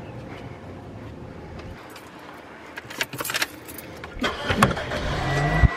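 Clicks and jangling keys, then a car engine starting about four seconds in and running on with a steady low hum.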